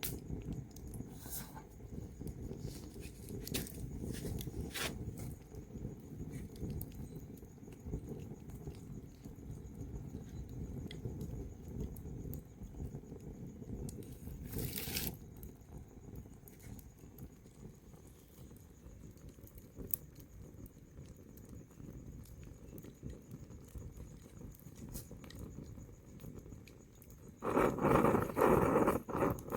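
Wood fire burning with a low steady rumble and scattered crackles and pops, one sharper pop about halfway through. The crackling grows denser and louder near the end.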